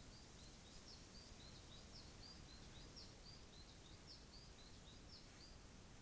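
Faint bird song: a quick run of short high chirps, about four or five a second, that stops near the end, over a steady hiss.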